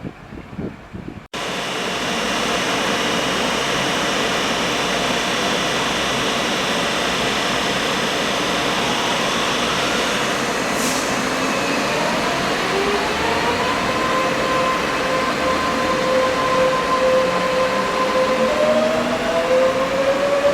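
Electric train running alongside at close range. From about twelve seconds in, several whining tones rise together in pitch as it gathers speed, and a brief hiss comes just before.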